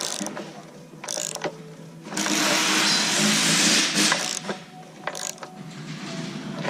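Hand work on hydraulic hose fittings: scattered metal clicks and knocks, with a loud rasping sound lasting about two seconds near the middle.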